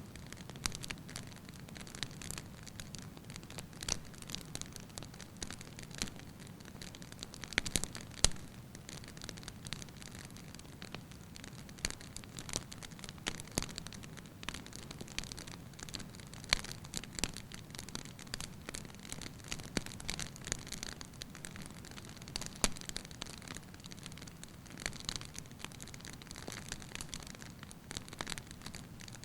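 Wood fire burning in a fireplace: irregular crackles and sharp pops over a low, steady rush of flame, with the loudest pops about eight seconds in.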